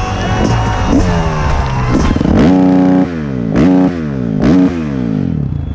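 Motocross bike engine revving hard several times, the pitch climbing sharply and dropping back between blips; three strong revs in the middle of the stretch.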